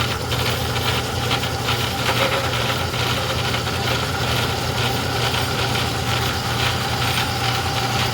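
Craftsman 109 metal lathe running: its electric motor and belt-and-gear drive make a steady low hum with a constant higher whir.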